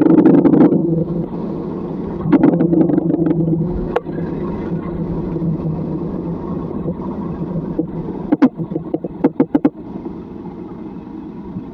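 A vehicle running with a steady low hum, and a few sharp knocks or clicks about eight to ten seconds in.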